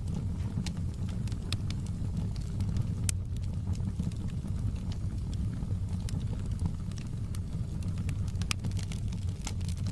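Wood fire burning in a fireplace: irregular sharp crackles and pops over a steady low rumble of the flames, with the strongest pops about three seconds in and near the end.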